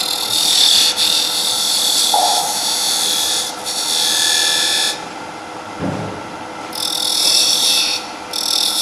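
Turning tool cutting a bead into spinning wood on a lathe: a high hiss that comes in four cuts with short pauses between them, over the faint steady hum of the lathe.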